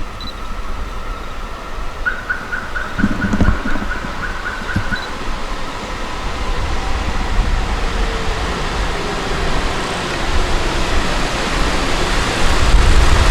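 Railway station sounds with electric commuter trains: a steady high tone with a rapidly pulsing alarm-like bell for a few seconds, two short low hums, and a slowly falling whine. Near the end a low rumble rises.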